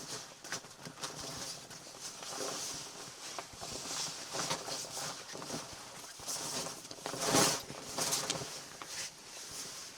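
Irregular crunching and scuffing in snow, with the loudest crunch about seven and a half seconds in.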